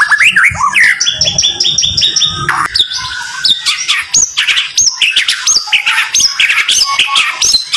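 White-rumped shama (murai batu) singing close-packed rapid-fire phrases: fast runs of repeated short notes, then a string of upward-hooked whistled notes about two a second.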